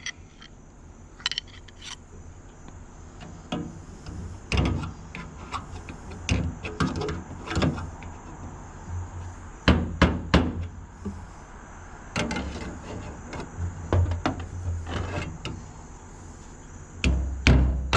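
Irregular knocks and taps of hand tools during the fan install, then a quick run of hammer blows, about three a second, starting near the end.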